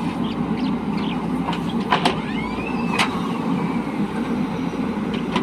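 Diesel engine of a JCB 3DX backhoe loader running steadily under work, with two sharp clanks about two and three seconds in.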